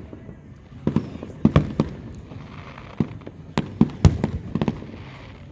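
Fireworks going off: about a dozen sharp bangs at irregular intervals, several close together in places.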